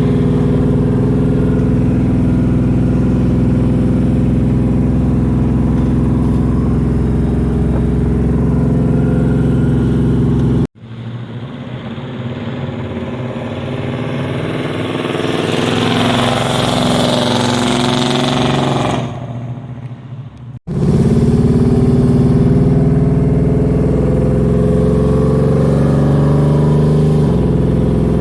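A 1975 Camaro's 383 stroker V8 running steadily at idle. About ten seconds in, the sound cuts to a quieter stretch of about ten seconds in which the engine note wavers up and down in pitch, then cuts back to the steady idle.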